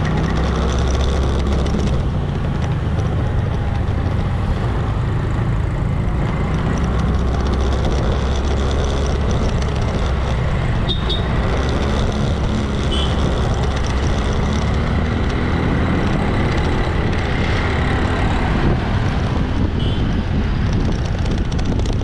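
Motorbike engine running steadily while riding through traffic, a continuous low drone mixed with road and traffic noise.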